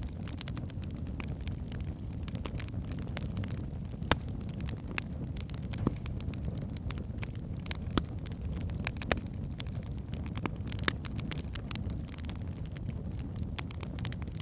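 Wood fire burning in a fireplace: a steady low rumble of flames with scattered sharp crackles and pops, a few louder snaps among them.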